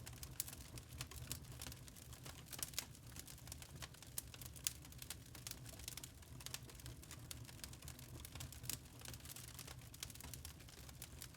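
Wood fire crackling in a fireplace: irregular snaps and pops of burning logs, several a second, over a steady low rumble.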